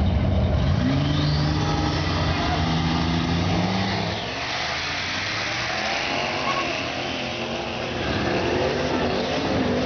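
Turbocharged Chevrolet Monte Carlo SS 3.8 V6 and a Mustang accelerating down a drag strip, engine notes climbing about a second in, then growing fainter with distance. The Monte Carlo is spinning its tires with no traction on this pass.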